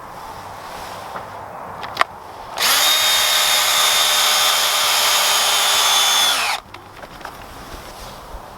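Power drill running steadily for about four seconds while working into softwood, its pitch dropping as it winds down and stops. A single sharp knock comes just before it starts.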